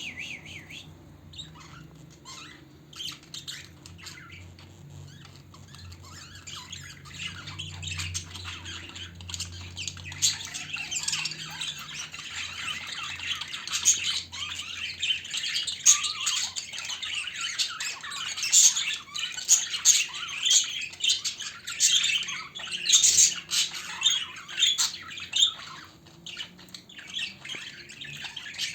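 A flock of budgerigars chattering and squawking, with many overlapping calls. The chatter grows busier and louder about a third of the way through.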